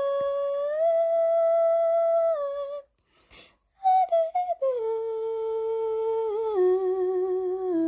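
A person humming a slow melody in long held notes that step up and down in pitch, with a short break about three seconds in.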